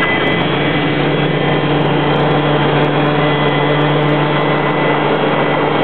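Helicopter turbine and rotor noise heard inside the cabin: a steady, loud drone with a constant hum.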